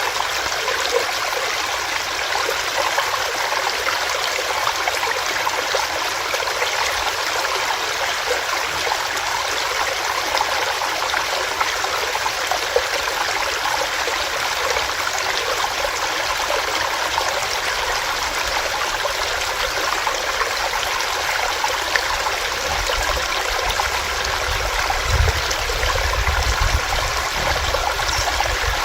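Small rocky stream running over rocks: a steady, dense rush of water with fine bubbling and splashing. About three quarters of the way through, a low rumble joins in underneath.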